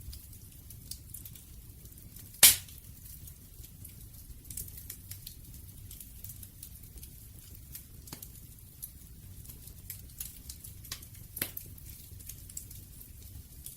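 Wood bonfire crackling: scattered sharp pops and ticks over a low, steady rumble, with one loud pop about two and a half seconds in.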